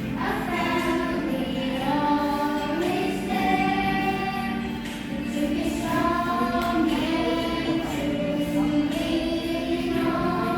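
A group of voices singing a slow song together, with long held notes that change pitch every second or so.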